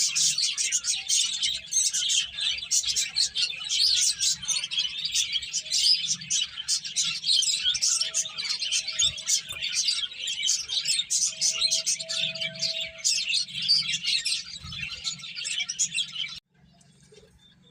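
Several finches chirping rapidly together, a dense stream of short, overlapping high calls that cuts off abruptly near the end.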